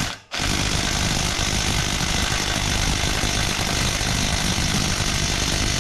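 Impact wrench hammering on a stuck exhaust bolt: a short burst, a brief pause, then a steady run of hammering for several seconds, so loud.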